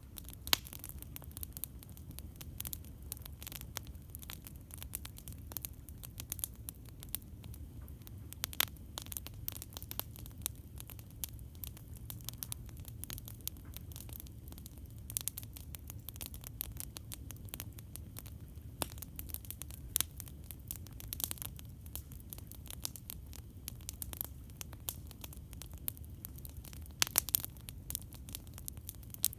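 Campfire wood burning with continuous irregular crackling and snapping over a low steady rumble, with a few sharper pops, a quick cluster of them near the end.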